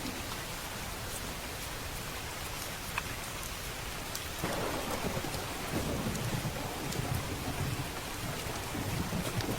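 Steady heavy rain, with a low rolling rumble of thunder that builds about halfway through and swells on to the end.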